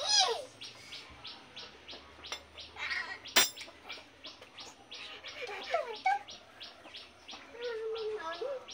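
Birds calling: a steady, rapid chirping of about four chirps a second, with several falling calls over it. A single sharp click about three and a half seconds in.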